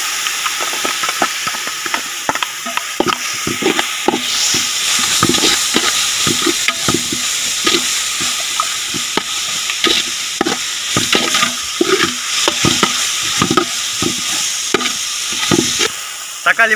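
Sliced onions and ginger-garlic paste sizzling in hot oil in a metal pot, with a perforated metal ladle scraping and knocking against the pot bottom as it is stirred at an irregular pace. The sizzle stops shortly before the end.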